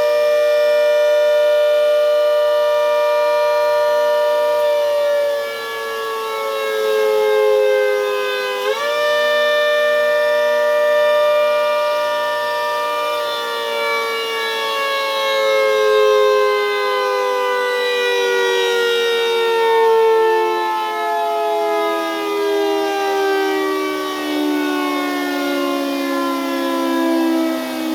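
Half-scale Hurricane warning siren sounding the attack signal, its blower wired in reverse: a loud two-note siren chord that holds, sags in pitch, swoops back up about nine seconds in, then winds slowly down in pitch through the rest.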